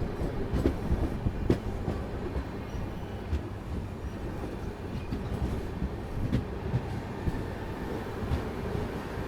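Express train running along the track: a steady rumble of wheels on rails, with scattered clicks as the wheels cross rail joints.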